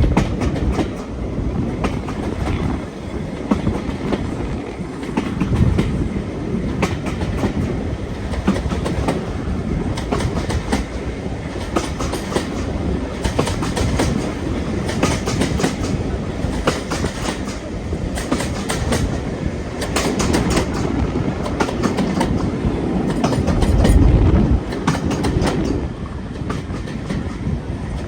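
Train running on jointed track: a steady rumble with wheels clicking over the rail joints throughout. A louder low rush comes about 24 seconds in.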